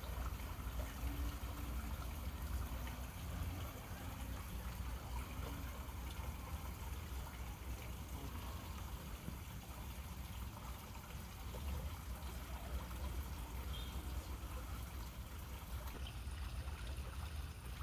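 Steady trickling water of a small pond, over a low constant rumble.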